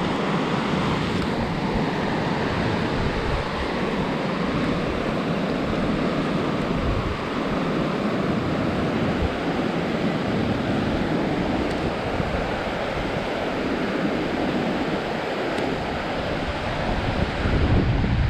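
Steady wind rushing over the microphone, an even rumbling noise with no clear engine note, growing a little louder near the end.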